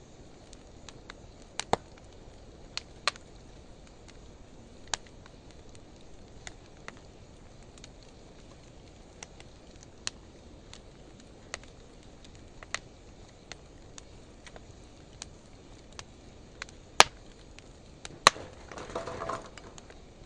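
Wood fire of driftwood and dry hardwood logs burning, with scattered sharp crackles and pops at irregular intervals; two louder pops come near the end, followed by a brief rushing hiss lasting about a second and a half.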